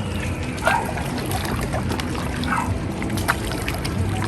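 Steady rumbling outdoor noise by a lake, like wind on the microphone, with three short distant calls about a second apart and a few light clicks and splashes.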